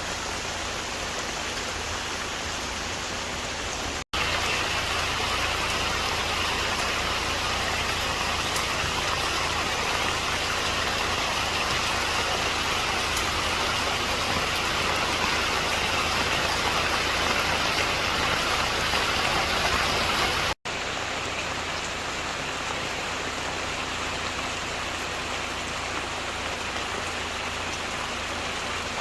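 Heavy rain pouring steadily over a low, steady hum. The rain cuts out abruptly twice and is louder in the middle stretch between the two breaks.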